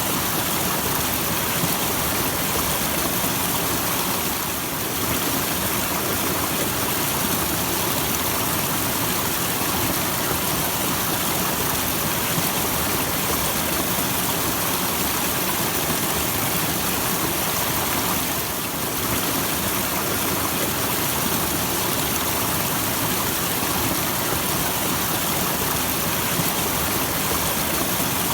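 Small waterfall splashing steadily: an even rush of falling water.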